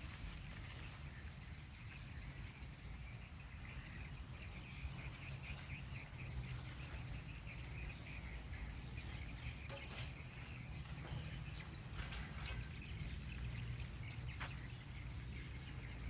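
Countryside ambience: a steady low rumble with chirping insects and birds over it, and a few sharp clicks or knocks in the second half.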